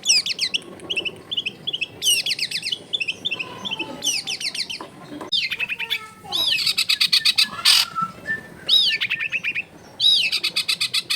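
Long-tailed shrike (cendet) singing: fast runs of repeated sharp chirps and down-slurred notes, in phrases a second or two long with short breaks between.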